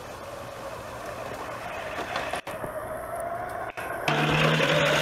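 Dual electric motors of a radio-controlled monster truck whining as it drives, with a steady rushing noise that builds. About four seconds in, the sound jumps louder into a steady hum.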